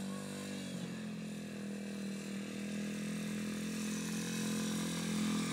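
Motorbike engine running at a steady note, with a slight change in pitch about a second in.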